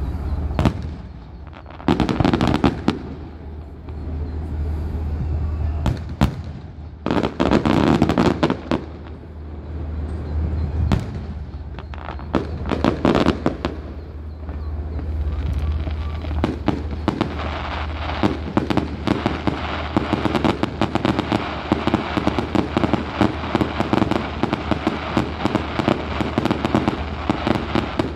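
Fireworks display: big shells bursting with booms and a crackling tail about 2, 7 and 13 seconds in, then from about 17 seconds a dense, continuous crackle of many small reports. A steady low hum runs underneath.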